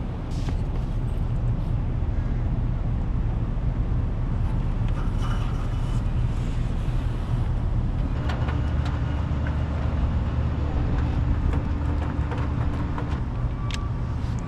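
Rooftop HVAC units running with a steady low mechanical hum, with a few light clicks and rustles from filters being handled.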